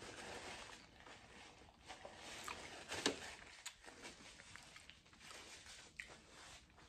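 Faint chewing and mouth sounds of a person eating, with a few soft clicks.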